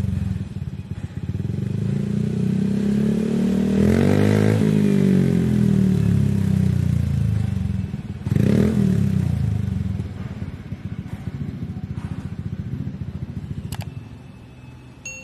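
Honda ADV 150 scooter's single-cylinder four-stroke engine through an aftermarket Akrapovic exhaust, idling with a mellow note and blipped twice: a slower rev about four seconds in and a quick one about eight seconds in, each falling back to idle. The sound gets quieter in the last few seconds.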